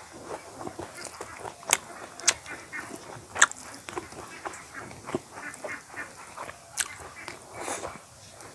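Eating sounds of rice and chicken curry eaten by hand: chewing with wet lip smacks, several sharp ones standing out (the loudest about three and a half seconds in), over soft squelching.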